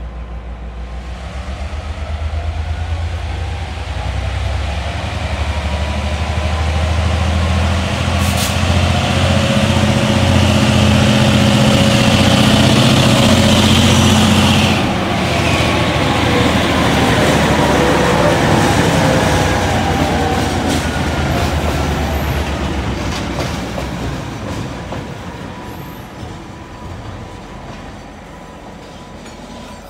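Taiwan Railway R158 diesel-electric locomotive hauling a freight train past at low speed: its diesel engine grows louder as it approaches and drops off sharply as it passes, about halfway through. Then the boxcars roll by with squealing wheels and clatter, fading toward the end.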